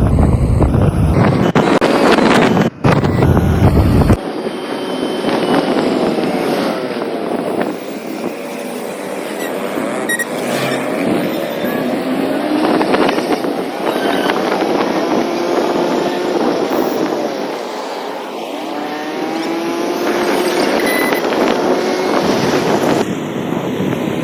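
Vehicle running along a highway: road and engine noise, with wind buffeting the microphone for the first few seconds. After that, engine tones rise and fall in pitch.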